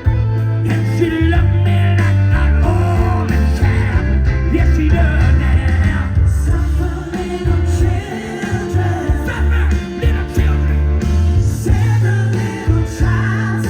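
Live rock band playing a song with vocals, a loud bass line and drums, heard as a concert recording.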